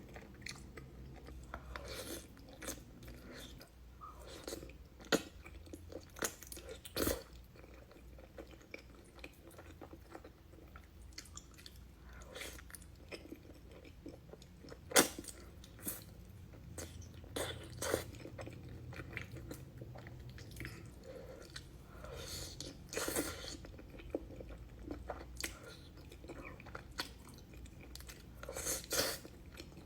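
Close-miked eating of cheesy food: chewing and biting, with irregular sharp crunches and clicks scattered through, the loudest about halfway through.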